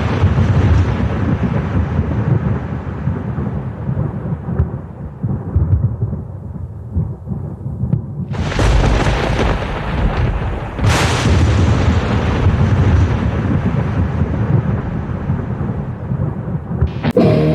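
Thunder rumbling, with two sudden loud cracks about eight and a half and eleven seconds in, each rolling off slowly.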